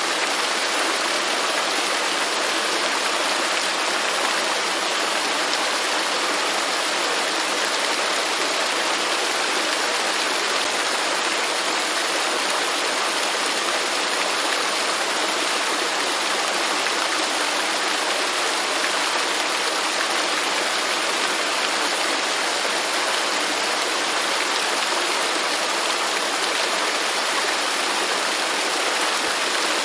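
Waterfall: a steady, even rush of falling water, mostly hiss with little deep rumble.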